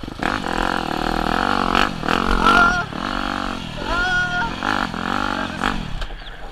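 Motocross dirt bike engine revving, its pitch rising and falling several times as the throttle is worked and the gears change.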